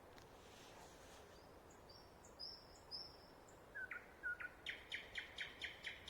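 Nightingale singing faintly: a few high whistled notes, then two lower notes, and from about two-thirds of the way in a fast run of about ten repeated notes, around four a second.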